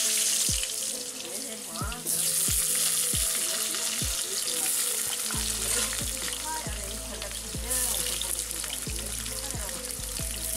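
Potato pieces sizzling as they fry in hot oil in a metal kadai. The sizzle turns louder about two seconds in and again near eight seconds, as more pieces go into the oil.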